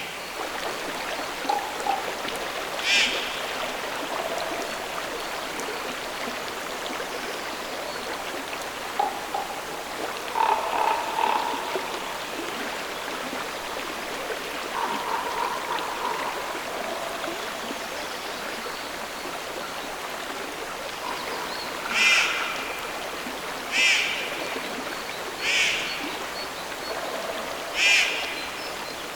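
Frogs croaking over the steady sound of flowing stream water, with a louder croaking call repeated four times about two seconds apart near the end.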